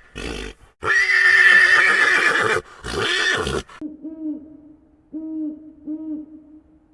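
A zebra's harsh, braying bark in breath-like bursts, the longest lasting nearly two seconds. Partway through it gives way to a run of about five low, even hoots.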